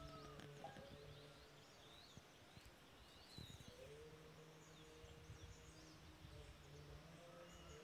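Faint chirping of several small birds, quick short calls scattered throughout, over a faint steady drone of held low tones that fades out just after the start and returns about halfway through.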